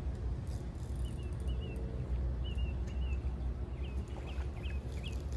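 Wind buffeting the microphone with a low rumble, while a bird calls over and over in short chirps, the notes turning quicker and sharper near the end.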